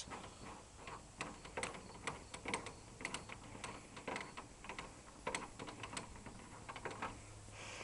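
Scattered light clicks and taps at an irregular pace, from working the lawn tractor's gear shifter knob loose by hand.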